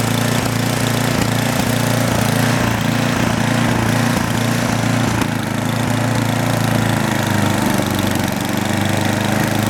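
Craftsman 10-horsepower, 29-inch snow blower's engine running steadily, over an even hiss.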